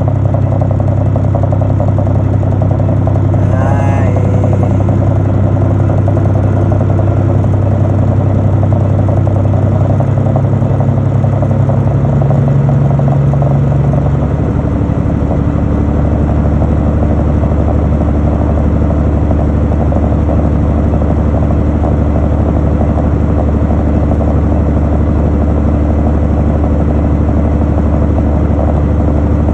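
Truck engine running steadily with a loud low hum that settles to a lower pitch about twelve to fifteen seconds in. A brief chirp sounds about four seconds in.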